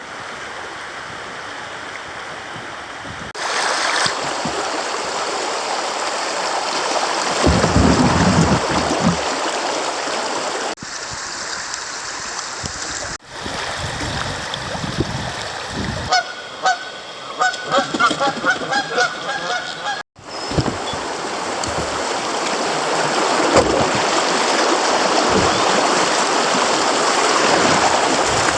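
Rushing creek water and wind noise, in several short clips cut together. For about four seconds past the middle, a bird gives a run of loud, repeated calls.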